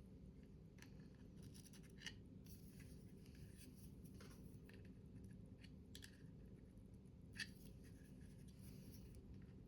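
Faint handling of paper and card during box-making: scattered small rustles and clicks over a steady low hum, with a slightly sharper click about two seconds in and another near the end.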